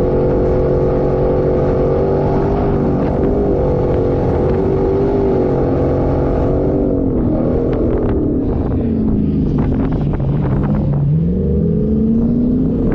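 A 4x4's engine running under load, its pitch steady at first, then dipping and falling low before rising again near the end as the throttle changes. Clicks and rattles are heard over it in the second half.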